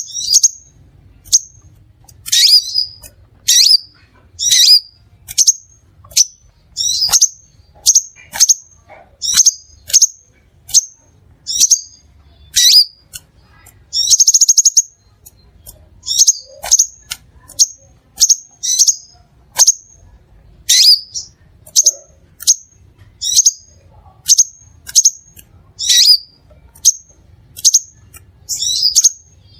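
Crimson sunbird calling: a steady string of short, sharp, high chirps, about one to two a second, with one longer buzzy trill about halfway through.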